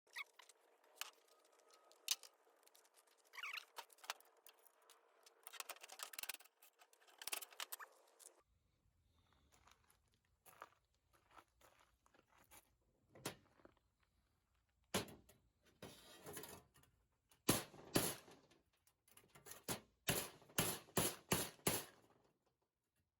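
Faint, irregular clicks, taps and scrapes of hand tools and small metal parts being handled, with a closer run of sharp ticks near the end.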